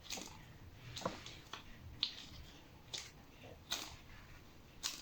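Faint, irregular clicks and taps, about one a second, from a washing machine drain pump being handled and turned by hand.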